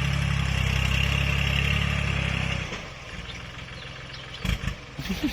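Kubota tractor's diesel engine running steadily, then dropping to a quieter, lower level about two and a half seconds in. Two low knocks come near the end.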